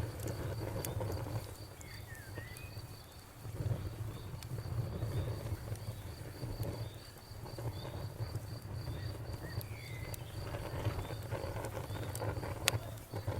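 Campfire burning with a low, rising and falling rumble and scattered sharp crackles and pops, the loudest pop near the end. A cricket chirps steadily at a high pitch in rapid, evenly spaced chirps throughout.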